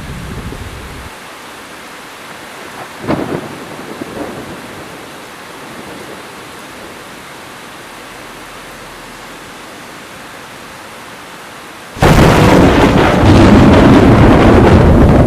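Heavy rain falling steadily, with a low thunder rumble dying away in the first second and two short crackles around three and four seconds in. About twelve seconds in, a sudden loud thunder crack breaks out and keeps rumbling heavily.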